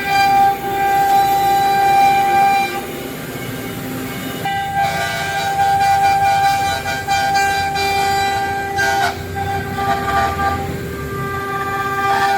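A 5-axis CNC router's spindle running with a steady high-pitched whine while the cutter machines the workpiece. The cutting noise swells and changes texture several times as the tool moves.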